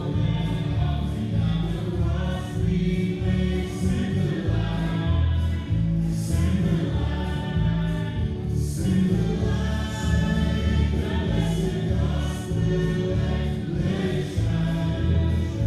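Gospel music with a choir singing over a strong bass line.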